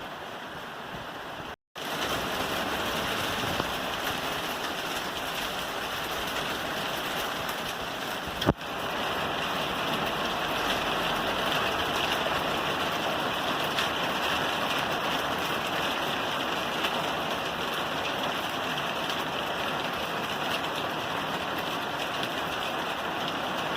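Steady heavy rain drumming on a roof, an even hiss of drops. About a second and a half in the sound cuts out for a split second and comes back slightly louder, and a single sharp click stands out about 8.5 seconds in.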